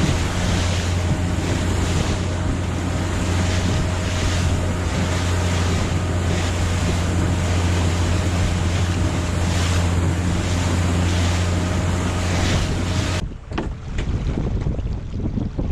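A fishing boat's engine running with a steady low hum, over wind buffeting the microphone and the wash of the sea. About 13 seconds in the engine sound cuts off abruptly, leaving wind and water with a few knocks.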